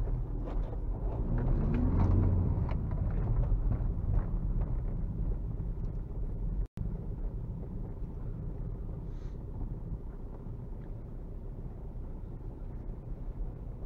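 Remapped VW Golf Mk4 1.9 TDI four-cylinder turbo-diesel heard from inside the cabin. It rises in revs about a second in and pulls hard for a couple of seconds, with scattered knocks and clicks from the rough track. After a brief dropout midway it settles to a lower, steady drone.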